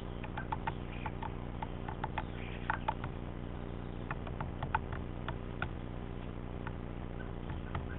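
Great spotted woodpecker pecking at peanuts packed into the holes of a hanging wooden log feeder: sharp, irregular taps, about twenty over the few seconds, some in quick pairs.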